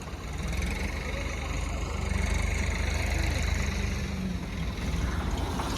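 Sonalika tractor's diesel engine running steadily with a low drone, getting a little louder about half a second in.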